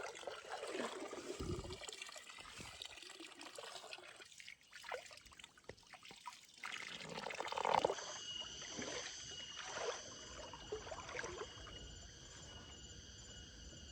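Water trickling. About halfway through, a steady high-pitched insect chorus joins it.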